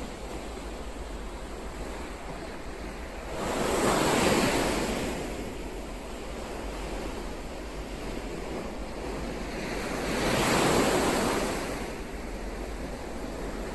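Ocean waves washing on the shore, a steady surf hiss with two waves breaking and swelling louder, one about four seconds in and another about ten and a half seconds in.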